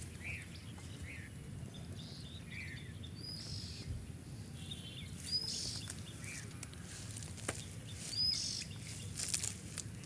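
Birds calling: scattered short chirps and a short, high, hooked call repeated three times, every two to three seconds, over a steady low background noise.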